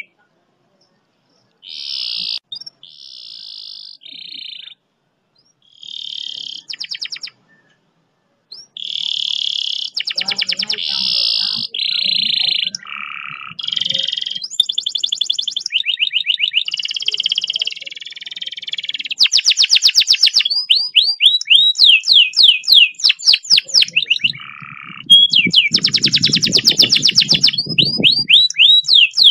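Domestic canary singing: phrase after phrase of fast trills and rolls, the notes repeated several times a second. There are short pauses in the first few seconds, then the rolls run almost without a break. It is a masteran (tutor) song with long speed rolls, the kind played to coax silent canaries into singing.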